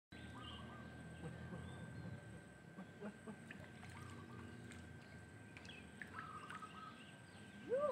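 Faint outdoor pond-side ambience with short bird calls repeating every second or two, and a few soft clicks. Right at the end a rising, humming voice starts.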